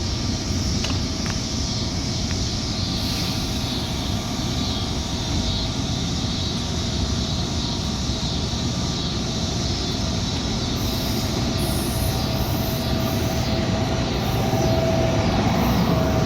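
Metra commuter train running with a steady rumble of wheels on rail, a faint steady tone coming through in the second half and the sound growing a little louder near the end.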